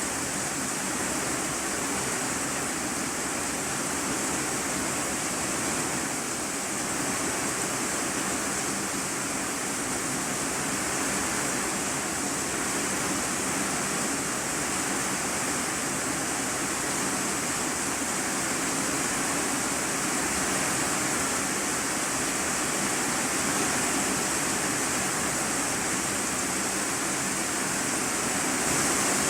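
Steady heavy rain drumming on a corrugated iron-sheet roof, heard from the room beneath: an even, continuous hiss with no separate drops standing out.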